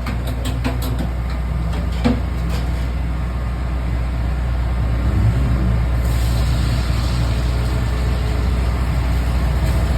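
A steady low engine hum, with a few sharp clicks and knocks in the first two and a half seconds and the running getting slightly louder about halfway through.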